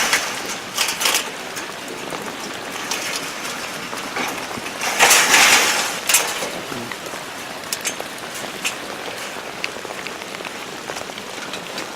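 Steady rain falling, with scattered sharp ticks of drops and a louder noisy burst about five seconds in.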